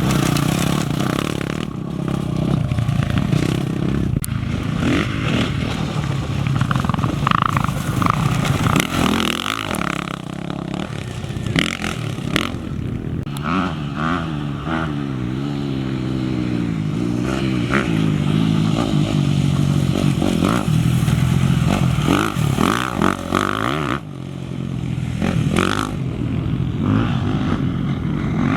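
Off-road race motorcycle engines passing, their pitch rising and falling repeatedly as they rev and shift, with a short lull about 24 seconds in.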